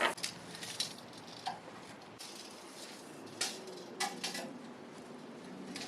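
A few light, scattered clicks and knocks over low room noise.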